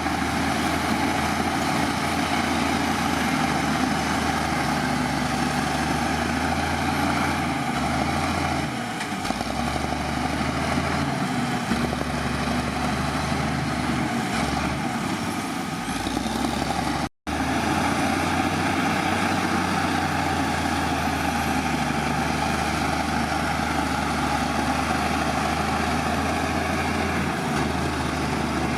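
Heavy diesel engine of earthmoving machinery running steadily, its low note shifting several times in the first half. A split-second gap of silence falls a little past halfway.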